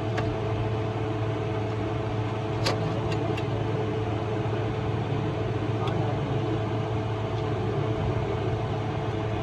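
An engine idling steadily, with a few sharp metallic clicks, the loudest about two and a half seconds in.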